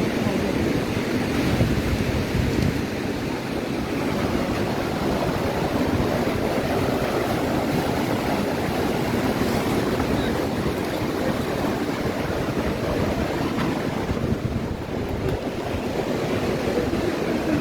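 Ocean surf breaking on a beach, with wind buffeting the microphone: a steady rushing noise with a low, gusty rumble.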